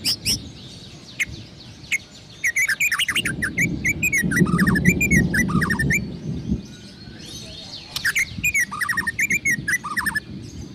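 A murai songbird singing two long phrases of quick, varied whistled notes mixed with sharp high ticks, with a short pause between them. A low rumble runs under the first phrase.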